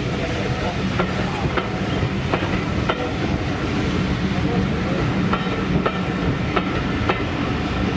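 Railway train rolling along the track, a steady rumble with its wheels clicking over rail joints in pairs, clickety-clack.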